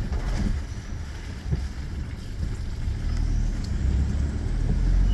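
A car driving: a steady low rumble of engine and road noise that grows a little louder near the end.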